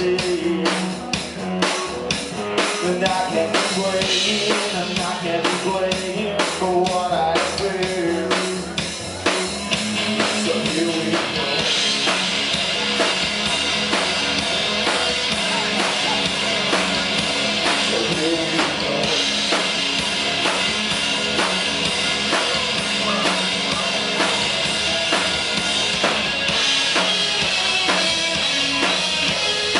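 Rock band playing live through an instrumental passage without vocals, the drum kit to the fore with a steady beat; the cymbals thicken into a constant wash about twelve seconds in.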